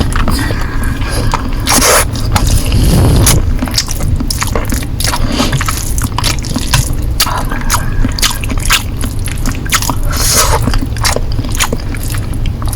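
Close-miked chewing of Korean noodles, with many quick, irregular wet mouth clicks and a few longer bursts of noise.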